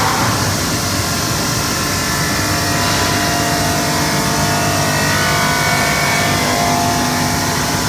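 CNC glass-cutting machine running, a steady mechanical hum with motor whines that shift slowly in pitch as it works.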